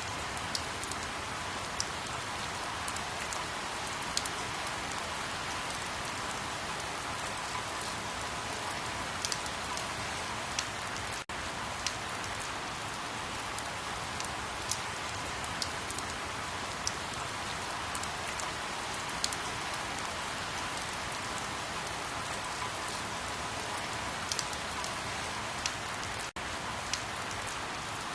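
Steady rain falling: an even hiss with scattered sharp drop ticks, cutting out for an instant twice.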